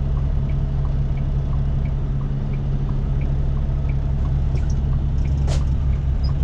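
Steady engine and road rumble inside the cab of an International LT semi truck under way. A light tick repeats about every 0.7 s, and there is a single sharp click about five and a half seconds in.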